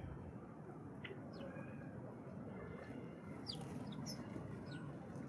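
Birds giving short, sharp high chirps, about half a dozen scattered calls, over a steady low outdoor background hiss.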